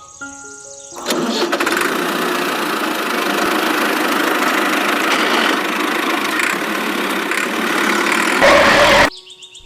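An engine starting and running loudly, growing louder and deeper near the end before it cuts off suddenly.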